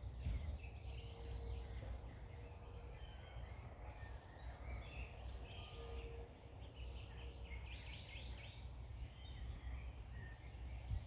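Several songbirds chirping and singing in short scattered phrases over a low, steady background rumble.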